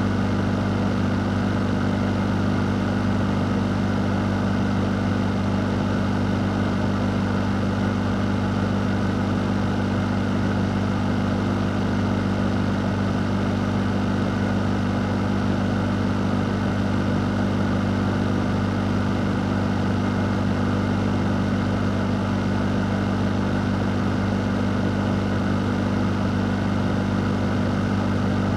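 A fan running steadily: a constant low hum under an even rush of air, unchanging throughout.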